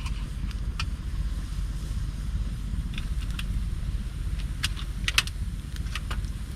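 Wood campfire of branches and driftwood crackling: scattered sharp pops and snaps, a few close together about five seconds in, over a steady low rumble.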